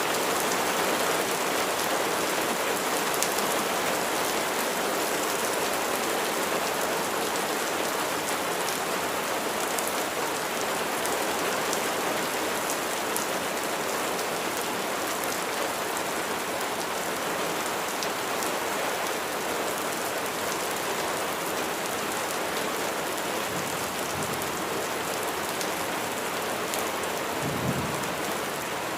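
Steady heavy rain falling in a dense, even patter, with a brief low rumble of thunder near the end.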